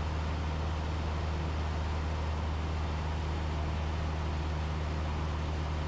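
Steady drone of a Cessna 172's engine and propeller in cruise, heard from inside the cabin: an even low hum with hiss over it.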